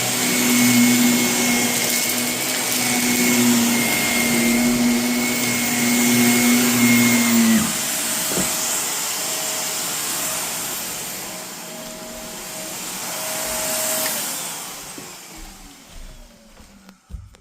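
Vacuum cleaner running over carpet strewn with renovation debris, with a steady motor hum under a gritty rushing hiss. The hum's pitch shifts about halfway through, and near the end the motor is switched off and winds down with a falling pitch.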